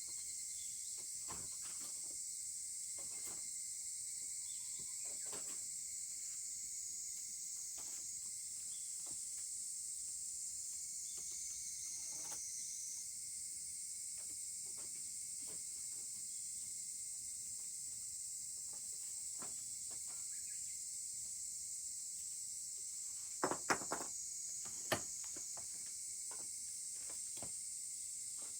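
Steady high-pitched insect chorus with a wood fire crackling in scattered pops, including a few louder cracks about three-quarters of the way through.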